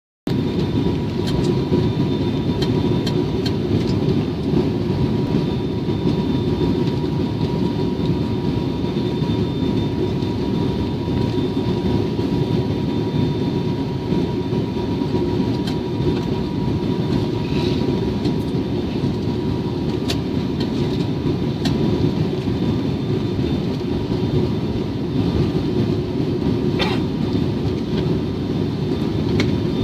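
Steady cabin rumble of a turboprop airliner, its engines and propellers running as it comes in to land, with a faint steady whine and a few small clicks.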